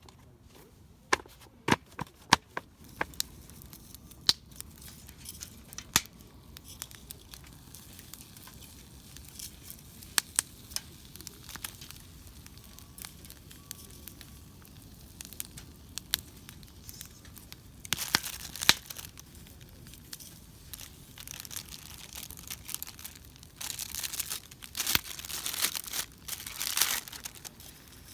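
Scattered sharp clicks, then crinkling and tearing of paper or plastic packaging in bursts of a second or two, the longest near the end.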